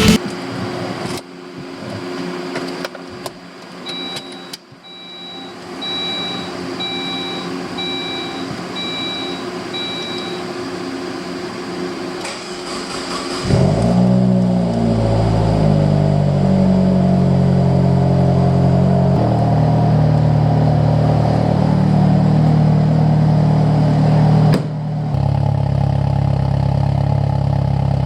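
A string of about seven short electronic beeps, then a Saab 9-3 Turbo's turbocharged four-cylinder engine starts about halfway through and settles into a steady idle. The idle carries a loud exhaust noise from a leak where a pipe clamp has rotted off.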